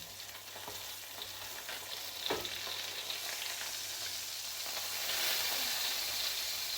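Mackerel fillets sizzling in a frying pan of oil and garlic-and-herb butter, with a light knock about two seconds in. The sizzle grows louder around five seconds in.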